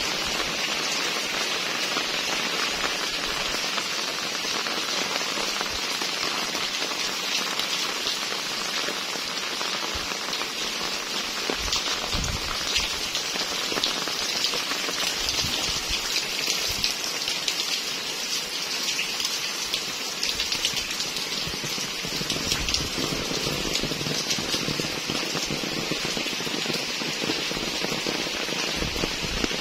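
Steady rain falling on a wet concrete lane and dripping into puddles, an even patter of drops, with a few low thuds now and then.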